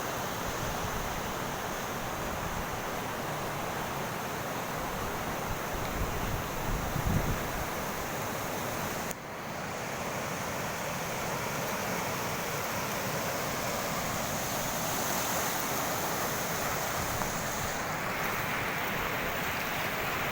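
Steady rushing noise of water and wind outdoors, with a gust buffeting the microphone about six to seven seconds in and a brief dip in level about nine seconds in.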